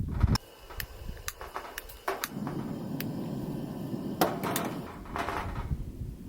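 Camp cooking gear being handled: a run of clicks and clanks from pot, lid and containers. A steady low rush sets in about two seconds in.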